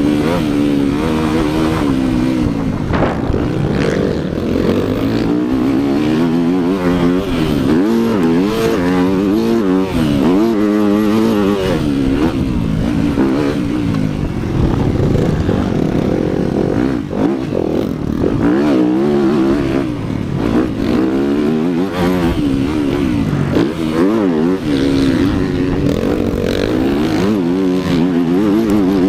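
Motocross dirt bike engine being ridden hard, its pitch climbing and dropping back again and again as the throttle is worked.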